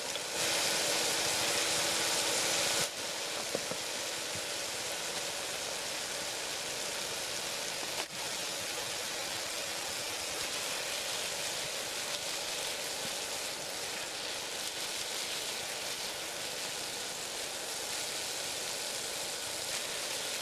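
Food frying in hot oil: a steady sizzle, louder and brighter for about two seconds near the start.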